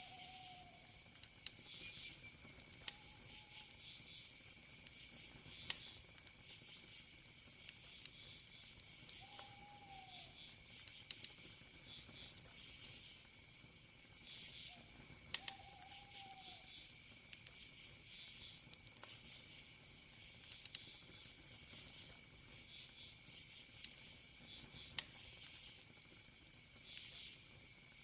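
Campfire crackling, with scattered sharp pops, over a steady chorus of crickets chirping. A short, low call sounds four times.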